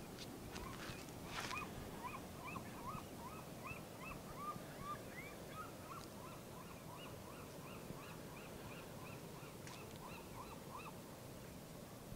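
A bird calling in a long, steady series of short repeated notes, about three a second, faint against the outdoor background.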